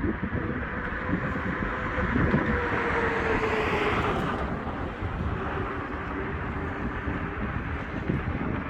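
A vehicle passes by: its engine tone falls slightly and its noise swells to a peak about four seconds in, then drops away, over steady low rumble and wind on the microphone.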